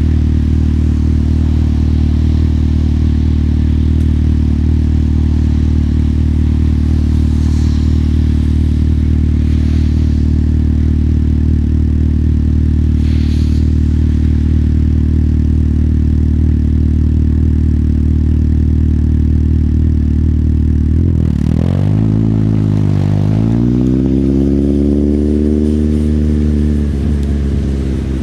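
Motorcycle engine running steadily at one even pitch for about twenty seconds, then revving up. The pitch rises, drops briefly at a gear change, rises again and eases off near the end.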